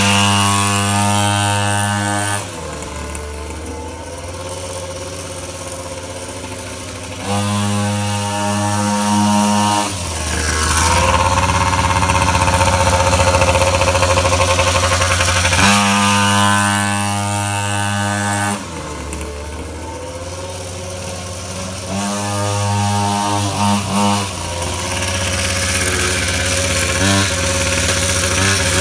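Orion dirt bike engine revving over and over: it holds high revs for two or three seconds at a time, then drops back, with the pitch sliding up and down between the held stretches.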